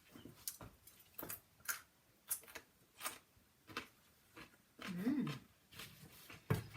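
A knife cutting raw vegetables on a chopping board: a row of crisp cuts about every two-thirds of a second.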